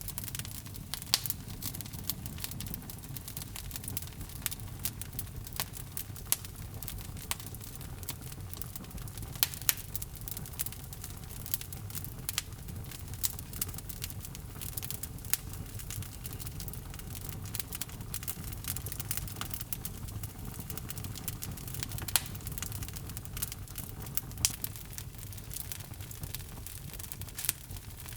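Log fire in a fireplace crackling: a steady low rumble of flames with irregular snaps and pops of burning wood, a few of them louder.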